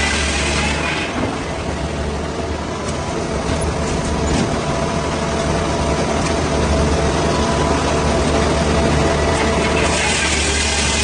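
A heavy engine running steadily with a low hum. A harsh, hissing noise is heard at the start, drops away about a second in, and comes back near the end.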